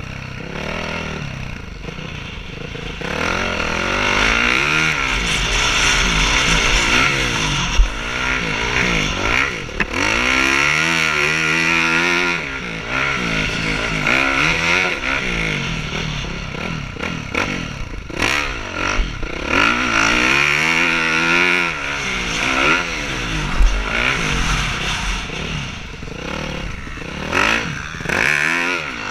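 Several motocross bikes racing, their engines revving up and falling back over and over as riders work the throttle and shift, with overlapping rising and falling engine notes.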